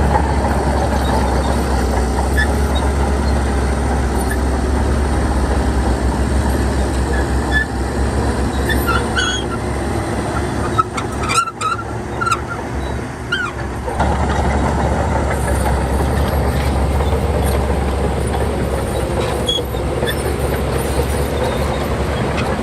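Heavy diesel earthmoving machinery running steadily under load, with a deep low rumble. Short high squeaks and clanks come and go in the middle, where the engine sound drops briefly before picking up again.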